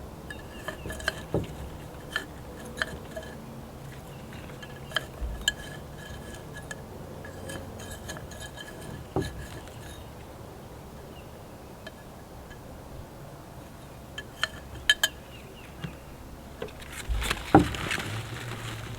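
Scattered clinks and light knocks of pots and tools being handled while repotting plants, a few ringing briefly, with a louder burst of rustling and knocking near the end.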